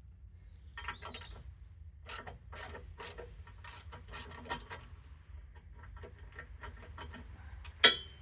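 Ratchet spanner clicking in short, uneven runs as bolts are worked, then a loud sharp knock with a brief ring near the end.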